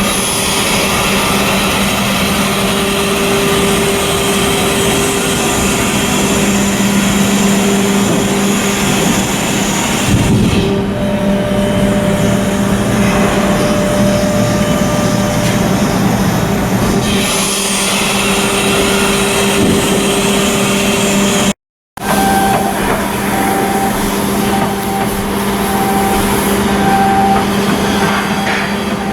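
Heavy machinery running steadily, a loud mechanical noise with a constant hum. After a brief cut about two-thirds of the way through, a short beeping tone repeats about once a second over the running noise.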